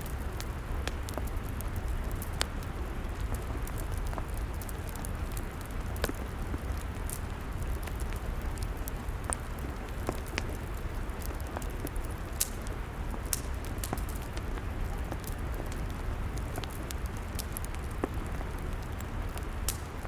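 Log fire burning, crackling with irregular sharp pops and snaps over a steady hiss and low rumble.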